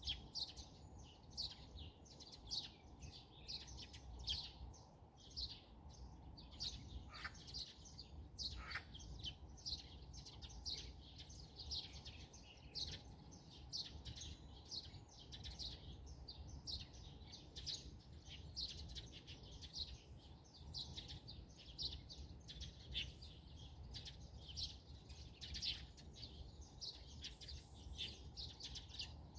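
Small birds chirping continuously, many short, high, falling notes several times a second, over a steady low background noise.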